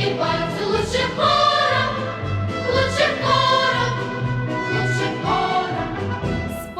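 Background music: a choir singing a song over instrumental backing.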